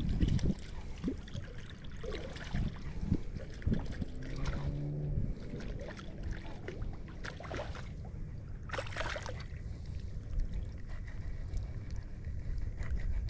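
Water lapping and trickling against a small fishing boat's hull, over a steady low rumble, with a brief hiss about nine seconds in.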